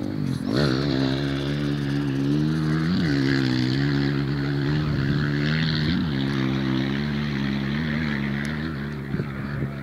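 Off-road race bike engine running at steady revs, its pitch dipping briefly and coming back up about every three seconds.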